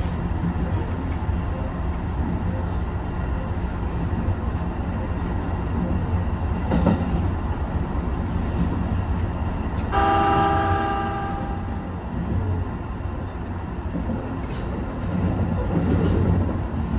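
Train running along the line with a steady low rumble and a single knock about seven seconds in. About ten seconds in, a train horn sounds once for about a second and a half.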